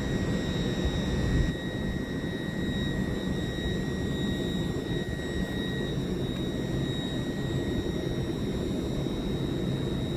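LNER Azuma train at the platform: a steady rumble of running machinery with a high electric whine over it, part of which stops about six seconds in.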